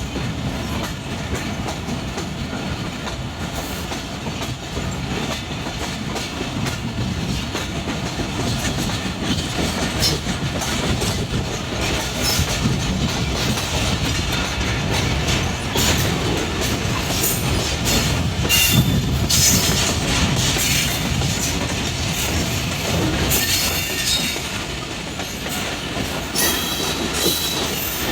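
Passenger train running at speed, heard from on board: a steady rumble of the coaches with the wheels clattering over rail joints, the clatter busier in the second half, and a few short high wheel squeals late on.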